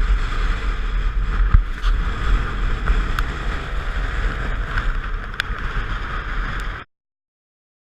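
Wind buffeting and rumbling on the microphone over the running noise of a moving vehicle, with a few sharp clicks; it cuts off suddenly to silence near the end.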